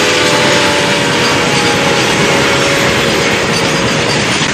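Train running on rails, wheels clattering steadily, with a thin steady squeal that fades out near the end.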